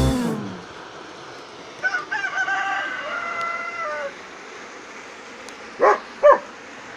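A long pitched animal call lasting about two seconds, in steps of pitch, then two short, louder calls about half a second apart near the end.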